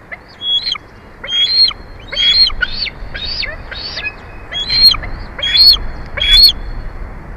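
Bald eagle calling: a run of about nine high, piping chirps, roughly one every two-thirds of a second, loudest in the second half, over a steady background hiss.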